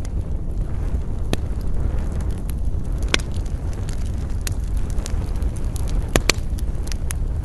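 Wood campfire crackling, with a handful of sharp pops scattered through it, the loudest pair about six seconds in. Under it runs a steady low rumble of wind.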